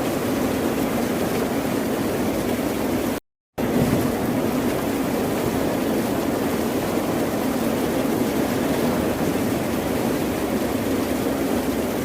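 Steady wash of ocean surf, heavy in the low-middle range. It cuts to dead silence for a moment about three seconds in, then resumes.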